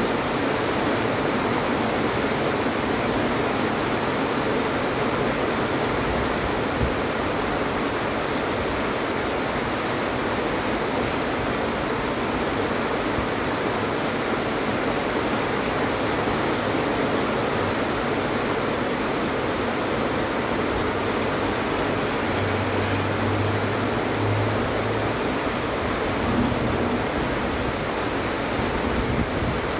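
Heavy rain falling steadily as an even, constant hiss of downpour. A faint low hum rises briefly about two-thirds of the way through.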